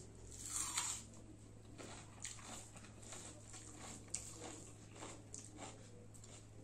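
A person eating: one loud crunchy bite about half a second in, then soft chewing with frequent small mouth clicks and smacks.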